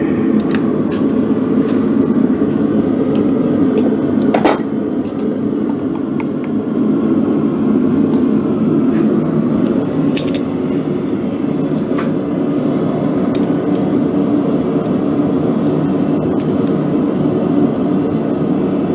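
Forge running with a loud, steady roar, with a few scattered clinks of metal tools on top of it.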